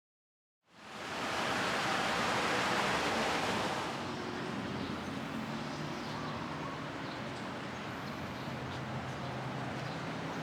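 Brief digital silence, then outdoor ambient noise fades in: a steady hiss, strongest for the first few seconds, with a faint low hum underneath.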